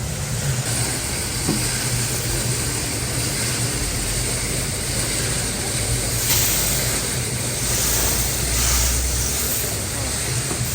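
Steady workshop machinery noise: a low hum with a steady hiss over it. The hiss grows stronger about six seconds in.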